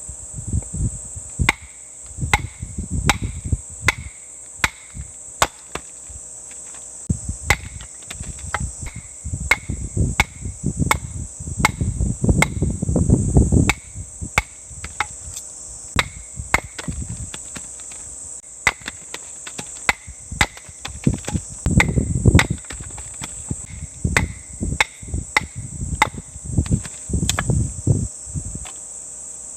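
Repeated sharp chopping knocks, irregular at about one to two a second with short pauses, among low rustling and handling noise. A steady high drone of crickets or other insects runs underneath.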